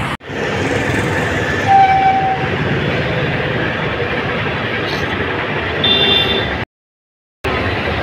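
Steady vehicle running noise with a short horn toot about two seconds in. The sound cuts out completely for under a second near the end.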